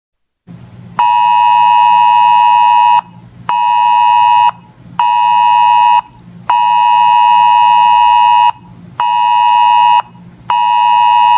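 Weather radio alert buzzer beeping in a repeating long-short-short pattern: six buzzy beeps, the long ones about two seconds and the short ones about one second. It signals an incoming weather alert.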